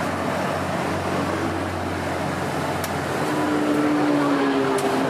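Steady city street noise with road traffic. A low steady hum joins about three seconds in, and there are two faint clicks.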